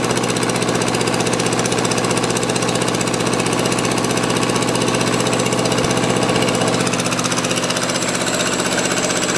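Small Kubota diesel engine running steadily in a garden tractor, with an even, rapid firing beat.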